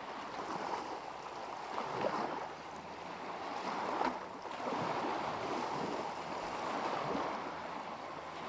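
Small lake waves lapping and splashing at the shoreline in uneven surges.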